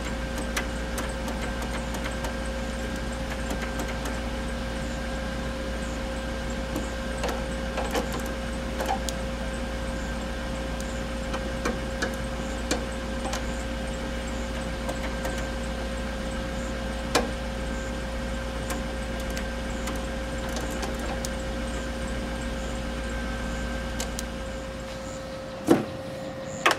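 Car engine idling steadily, a low hum with scattered light clicks and taps of work on the mower's wiring; the hum cuts off about 25 seconds in.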